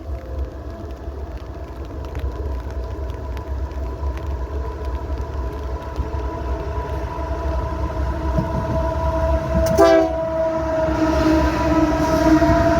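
Diesel-hauled fuel train approaching, its locomotive growing steadily louder over a low rumble, with several sustained tones. A short sharp clatter comes about ten seconds in.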